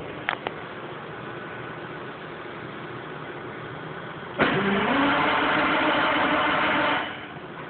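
Cold start of a CMI PR-800-7 cold milling machine's diesel engine: a couple of clicks, then a sudden loud burst of engine cranking over, its pitch rising for the first half-second and holding for about two and a half seconds before dying away.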